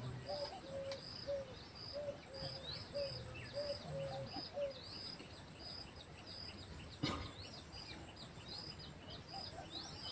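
Birds calling: a short high chirp repeated steadily about twice a second, joined for the first half by a lower note repeated at about the same pace. A single sharp click about seven seconds in.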